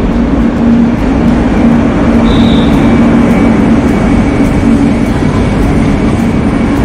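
Electric-hauled passenger train pulling in alongside the platform, the locomotive and then the coaches rolling past close by, with a loud, steady low hum over the rolling noise. A brief high squeal sounds a little over two seconds in.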